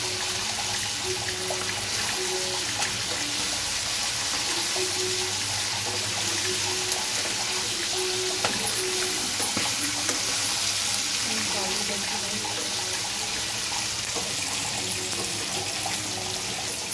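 Chicken pieces sizzling in oil in a non-stick kadai, a steady hiss, with a few clicks of a metal spatula turning them.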